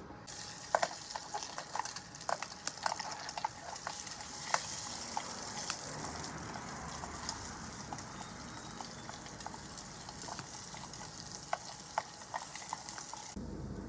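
Chinese cured sausage frying in a pan, a steady sizzle with frequent sharp pops and crackles as its fat renders out; the sizzle cuts off suddenly near the end.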